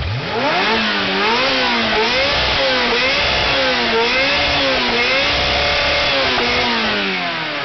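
Ferrari Spider's engine revved up sharply from idle, then held at high revs, rising and falling about once a second as the throttle is worked, before dropping back toward idle near the end.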